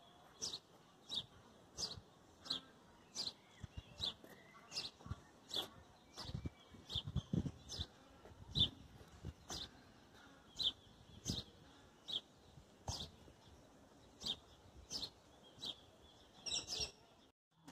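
A small bird chirping repeatedly: short, high chirps at a steady pace of about one to two a second.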